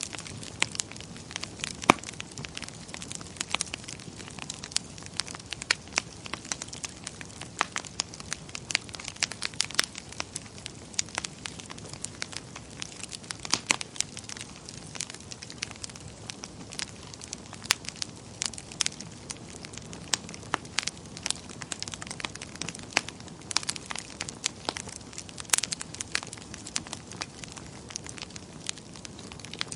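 Wood fire burning in a fireplace, crackling and popping irregularly over a steady low hiss.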